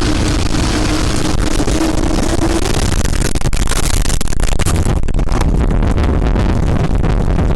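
Loud, steady rushing roar of strong wind on the microphone, with a steady hum for the first two or three seconds and dense crackling and buffeting from about three seconds in.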